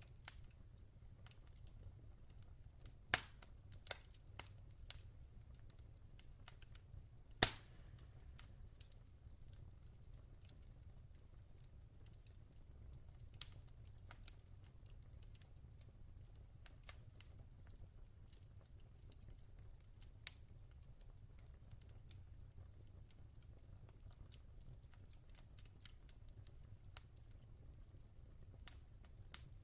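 Log fire crackling: scattered sharp pops and snaps over a faint low rumble, the loudest pop about seven seconds in.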